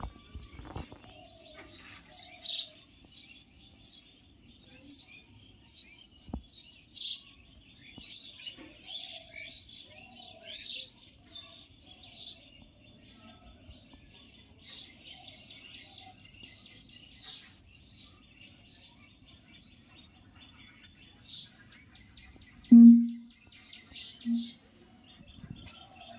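Small birds chirping in a tree: short high chirps repeated about once or twice a second over a fainter, continuous twitter. Near the end a loud, short low-pitched tone sounds, then comes again twice, fainter.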